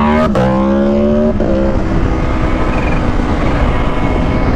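Kawasaki H2's supercharged inline-four engine pulling hard under acceleration, its pitch climbing and then dropping sharply twice, about a third of a second and a second and a half in, as the quick shifter snaps through upshifts without the clutch. It then runs on at a steadier, slowly rising pitch.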